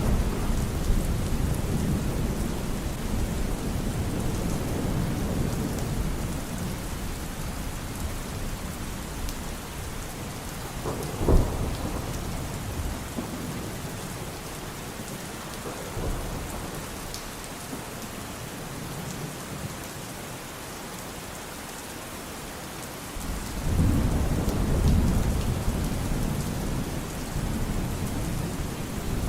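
Steady rain with thunder: a low rumble dying away over the first several seconds, a sharp thunderclap about eleven seconds in and a smaller one a few seconds later, then another rumble swelling up near the end.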